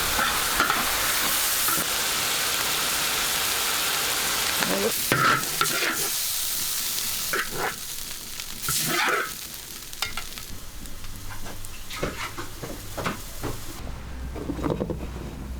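Food sizzling in a hot pan while it is stirred, with a spatula scraping the pan several times. The sizzle is loud at first and dies down over the last third.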